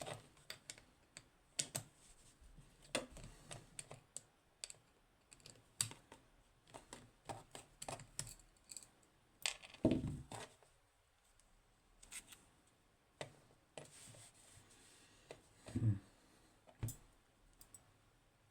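Irregular small metal clicks and taps from a 15-pin Codkey Locksys lock and tools being handled as the lock is taken apart, with two louder knocks in the second half.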